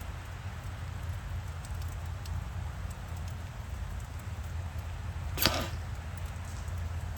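A blowgun dart fired once, a short sharp puff about five and a half seconds in.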